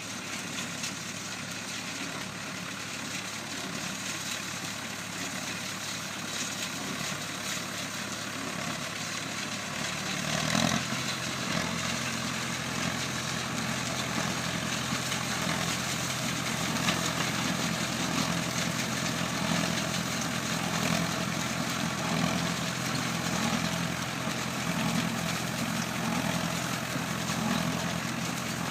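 An antique baler running under engine power with a steady mechanical drone. About ten seconds in the sound gets louder and shifts lower, and a rhythmic pulsing runs through it from then on.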